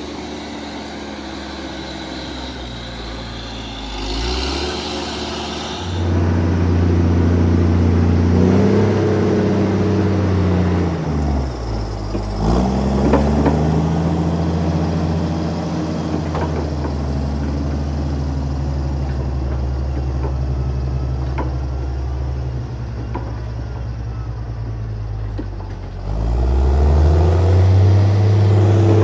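Heavy diesel engine of logging equipment running and revving up and down under load. It speeds up about a fifth of the way in, drops and climbs again near the middle, then runs steadily before revving up again near the end.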